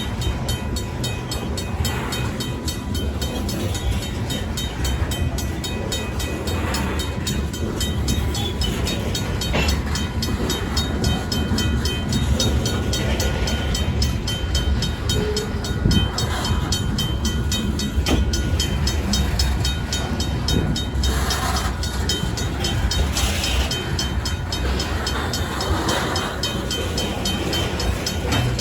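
Freight cars of a Union Pacific local rolling over a grade crossing with a steady low rumble, while the crossing's RACO mechanical bell rings on in rapid, even strokes. Two brief high screeches come about three quarters of the way through.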